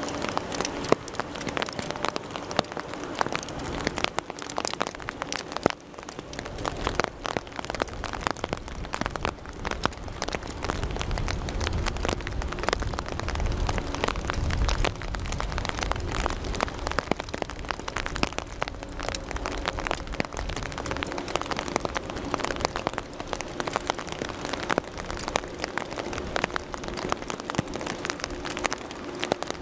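Rain falling, with dense sharp drop hits close to the microphone over a steady hiss. A low rumble swells and fades in the middle.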